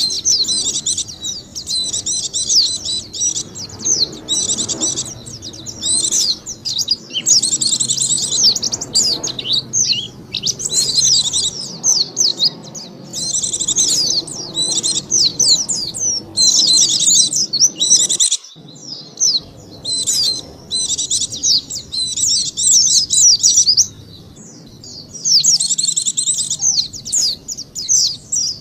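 White-eye (pleci) lure song: rapid, high chattering warbles in phrases of a second or two, following one another with short gaps, and a longer pause near the end.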